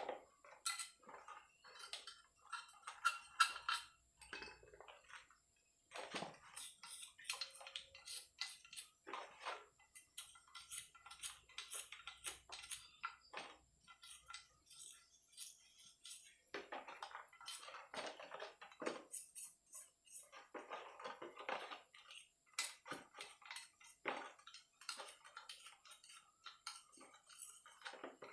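Scrubbing and scraping with light metallic clinks and taps from Yamaha RX-King engine parts being cleaned by hand, in irregular bursts with a brief pause a few seconds in.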